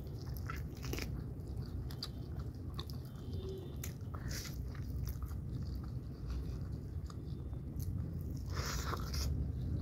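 A person biting into and chewing a chicken wing close to the microphone, with scattered wet mouth clicks and light crunches.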